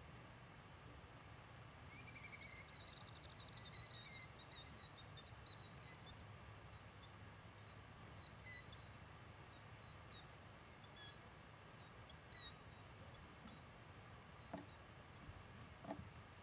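Quiet open-air background with a small bird calling: a loud run of high chirps falling in pitch about two seconds in, then a few scattered short chirps. A couple of soft clicks near the end.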